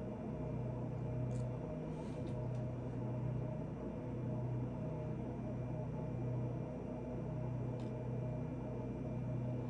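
A steady low hum that swells gently every second or two, with a few faint light clicks.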